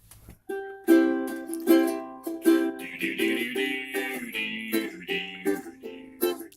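Acoustic string instrument strummed in a steady rhythm, playing the chords of a song's introduction.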